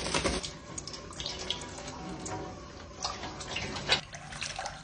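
Water splashing and spattering as a parrot bathes in it, with irregular small splashes.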